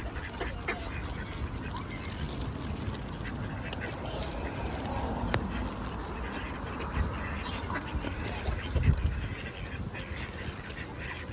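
Waterfowl calling with short, scattered calls over a steady low rumble, with one louder low thump about nine seconds in.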